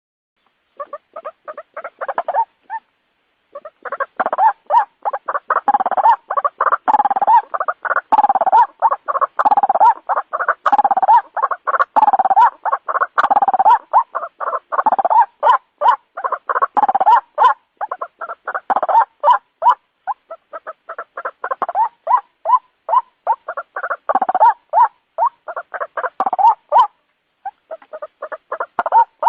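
White-breasted waterhen calling in a long run of rapid, repeated notes, several a second, with a short pause near the end. This is a recorded lure call (pikat) used to draw the birds in.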